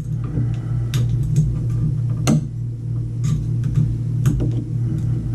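Scattered light clicks and knocks of small tools and parts being handled, over a steady low hum.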